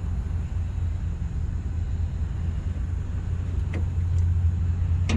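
A steady low rumble, with two short knocks about a second apart near the end.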